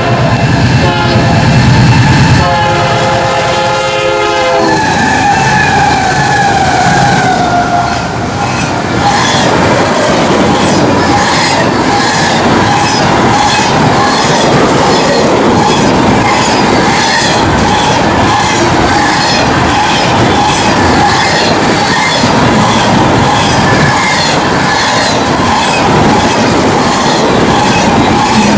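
Union Pacific Z train horn blowing a chord for the first few seconds, followed by a falling whine as the locomotives go by. Then a long string of fast-moving cars rolls past with a steady, even clickety-clack of wheels over rail joints, about two a second, and a thin wheel squeal.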